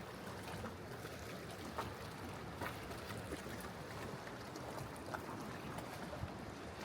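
Sea water washing and trickling over rocks in a steady wash, with a few scattered small clicks.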